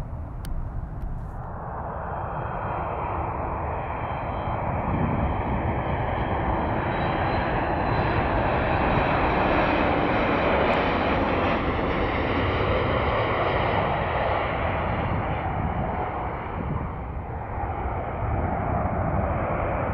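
Jet airliner's engines passing by: a rushing roar that builds, is loudest about halfway through, then eases off, with a high fan whine on top that drops slightly in pitch as it goes.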